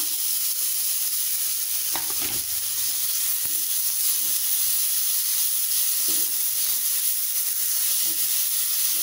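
Grated beetroot sizzling in hot ghee in a heavy cast-iron kadai, a steady hiss, with a few light scrapes of a metal slotted spatula stirring it.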